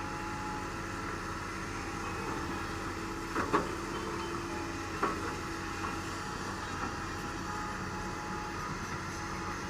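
Doosan DX225LCA excavator's diesel engine running steadily, with a few sharp knocks around three and a half and five seconds in.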